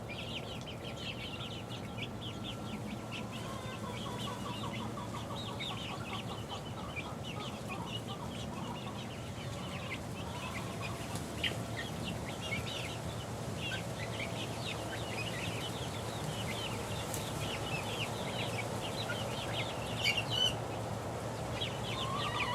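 A flock of six-week-old chicks cheeping and peeping continuously in many short, high chirps, with a few lower trills mixed in. A low, steady hum runs underneath.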